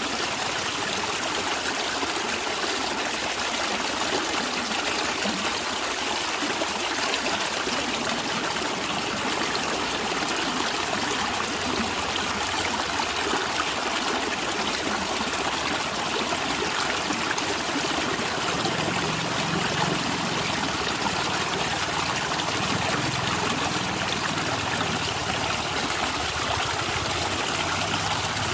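A stream of water running and trickling, a steady gurgling flow with some low rumble joining about two-thirds of the way through.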